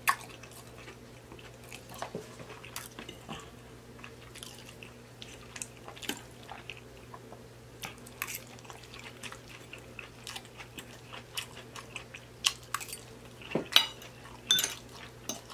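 Close-miked chewing of soft food, with a metal fork clicking and scraping on a plate; the loudest clicks and scrapes come near the end. A faint steady low hum runs underneath.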